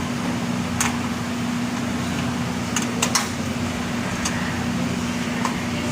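Light clicks and taps of parts being handled while a motherboard is taken out of a desktop computer case, over a steady fan-like hum. Six short, sharp clicks are spread through it, three of them close together about three seconds in.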